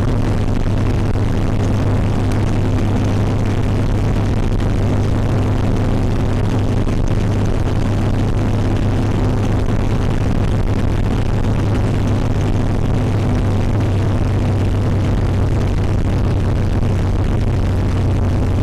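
REO vehicle's engine and drivetrain running at a steady pace under way, a constant low drone with a steady higher hum riding over it.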